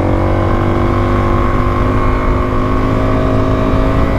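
Suzuki DR-Z400S's single-cylinder four-stroke engine pulling at a steady pitch while the bike rides through deep sand, rising a little in the first second and then holding level.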